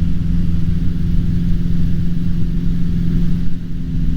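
Cessna 150's four-cylinder Continental O-200 engine and propeller running steadily, a constant low drone heard inside the cockpit with a slight dip about three and a half seconds in.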